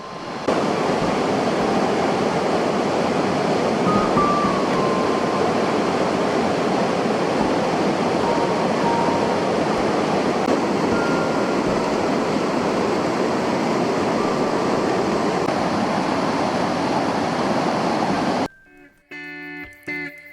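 Waterfall with water rushing steadily. About eighteen seconds in it cuts off suddenly and plucked guitar music begins.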